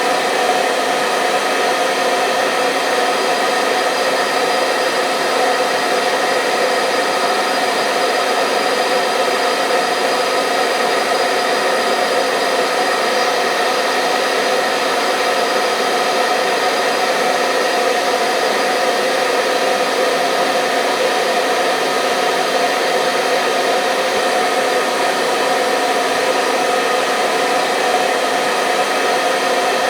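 Hair dryer running steadily: a continuous fan-and-motor whoosh with a steady whining hum.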